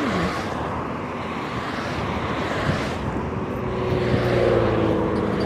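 Road traffic rushing past, with a motor vehicle's engine hum coming in about three seconds in and growing louder.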